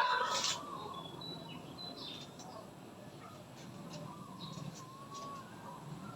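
Birds chirping outdoors: scattered short, high chirps and a brief whistled note, over a low steady background.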